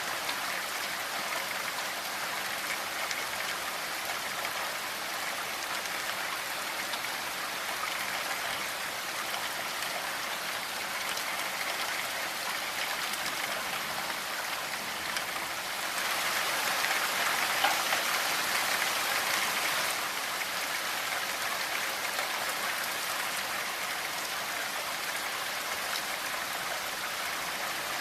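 Steady rainfall, an even hiss of many drops, swelling a little louder for a few seconds past the middle.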